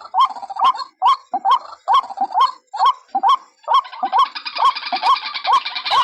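White-breasted waterhen (ruak-ruak) calls played as a bird-trapping lure: short rising notes repeated about two to three times a second, joined about four seconds in by a faster, higher chattering.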